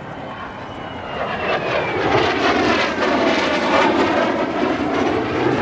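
Blue Impulse Kawasaki T-4 jet trainers' turbofan engines passing overhead. The jet noise swells about a second and a half in, and its whine drops in pitch as they go by.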